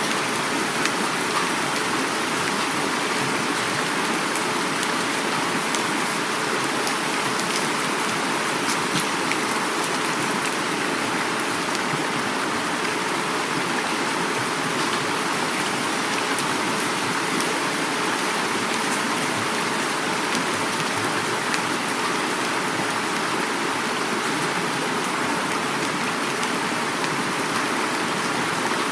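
Heavy rain falling, with many fine drop impacts, over steady rushing river water. The hiss is dense and even throughout.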